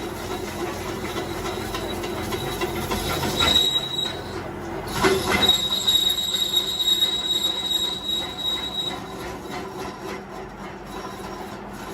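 Metal-on-metal screeching and grinding from work on a steel truck wheel rim, over a steady low hum. Knocks come twice a little past a third of the way in, then a high, steady squeal holds for about three and a half seconds.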